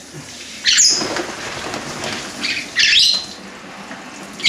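Pionus parrot squawking a few times, sharp high calls about a second in and again around three seconds, over a steady hiss of water spraying in a sink.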